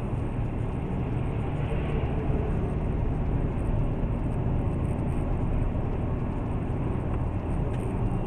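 Steady low rumble of a car driving, with engine and road noise and no distinct impact or horn.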